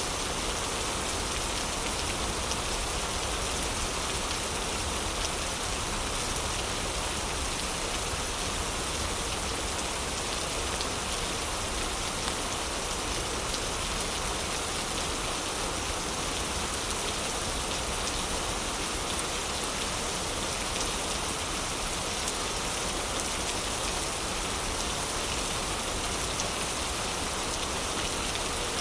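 Heavy rain falling steadily, an even hiss, with occasional faint crackles from a fireplace.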